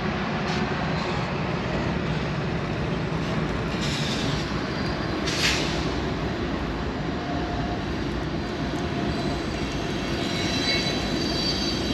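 Train rolling past with a steady running noise, with thin high squeals from its wheels in the last couple of seconds.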